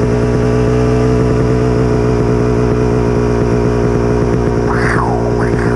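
Kawasaki KX250 two-stroke dirt bike engine running steadily at an even speed.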